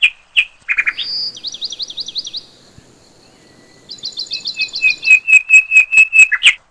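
Lovebirds chirping: sharp shrill calls and fast warbling trills, a short lull partway through, then a run of loud repeated chirps at about five a second near the end.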